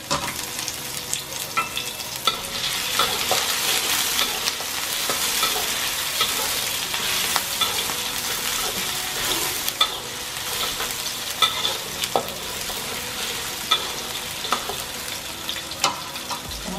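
Chopped garlic, ginger and red chilli sizzling in hot oil in a wok, stirred with a metal spatula that scrapes and clicks against the pan now and then.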